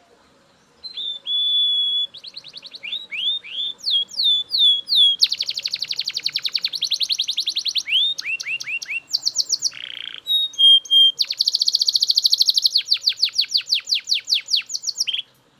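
Male Belgian canary singing loudly. The song is a held whistle, falling slurred notes and fast rolling trills, with a short harsh buzzy note about ten seconds in. It starts about a second in and stops just before the end.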